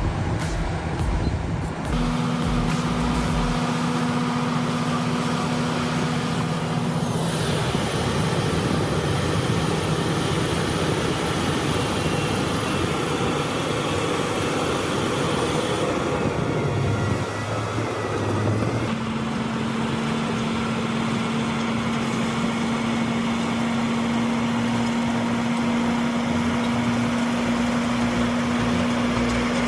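Heavy diesel bulldozer engines running steadily under load, with a droning hum, changing abruptly several times as the footage cuts between shots.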